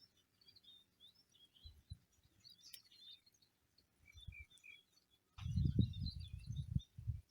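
Small birds chirping throughout. About five seconds in, strong wind starts buffeting the microphone in gusts that drown out most of the birdsong.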